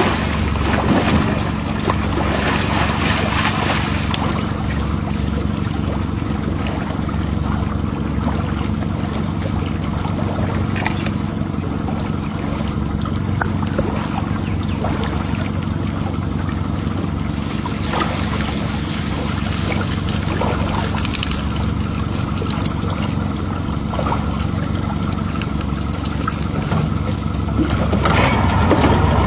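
Boat motor idling steadily, with a low, even engine hum.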